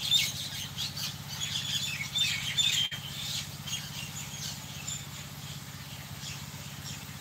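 Small birds chirping in many quick, short calls, busiest in the first three seconds and thinner after, over a steady low hum.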